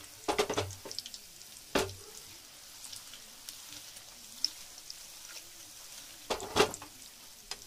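Gulab jamun deep-frying in desi ghee in a steel kadhai: a faint steady sizzle. It is broken by sharp clattering knocks from the pan being handled, about half a second in, near two seconds, and again around six and a half seconds in.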